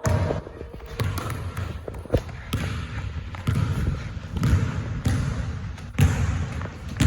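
Basketballs bouncing, a series of irregular thumps about one a second.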